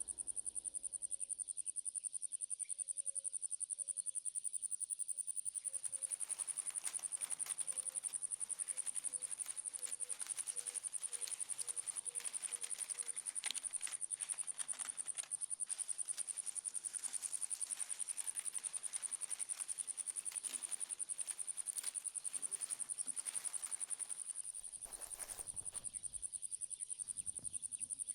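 Insect trilling: one steady, very high-pitched, rapidly pulsing call that carries on without a break.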